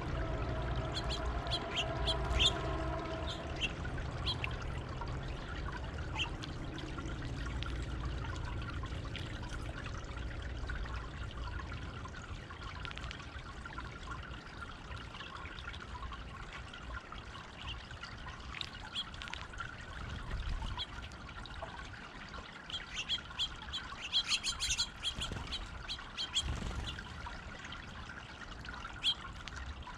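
Water trickling and pouring over a stone garden fountain, with small birds chirping on and off and a busier run of chirps late on.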